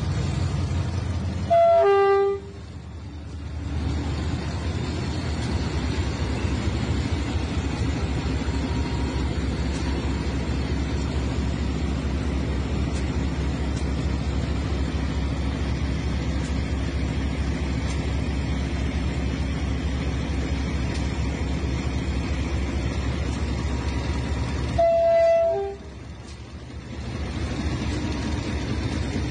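Diesel locomotive and freight wagons rolling past at close range with a steady low engine drone and wheel noise. The locomotive's horn sounds in two short blasts, one about two seconds in and another near the end.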